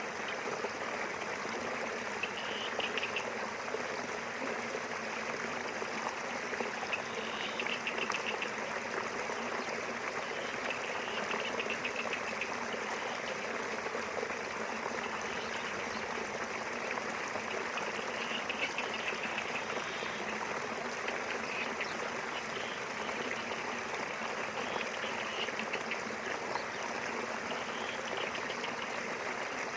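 A small river flowing steadily with an even rush of water. Faint high chirping rises above it now and then.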